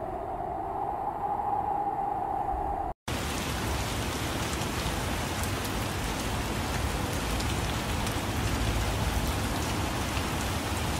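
A steady drone with one held mid-pitched tone, then after a brief silent gap about three seconds in, steady rain falling: a dense, even hiss of drops that runs on until it cuts off abruptly.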